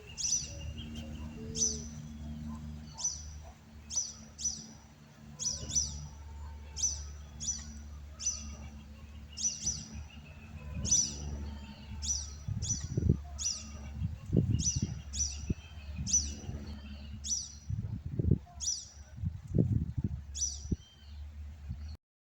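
A bird calling with one short, high chirp repeated over and over, about one to two a second, over a steady low hum. Several low thumps come in the second half.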